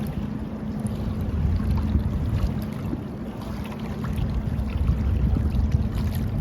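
Moving water with a dense low rumble, scattered with small ticks and splashes.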